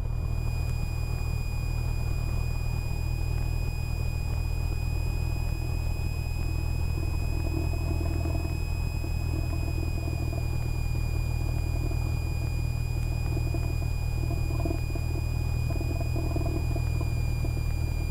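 Cessna 172R's four-cylinder Lycoming IO-360 engine running steadily at low taxi power, a deep continuous hum with a thin steady whine above it.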